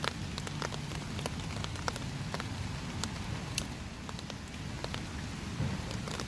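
Steady rain falling, with individual drops tapping sharply and irregularly.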